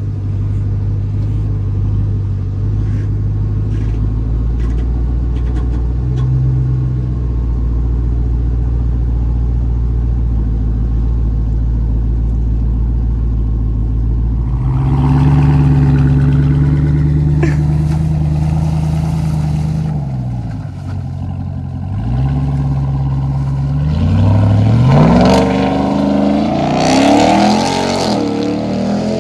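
Straight-piped Ram TRX's supercharged 6.2-litre V8 idling with a deep, steady rumble. About halfway through it revs up, drops back, then revs harder and louder again near the end.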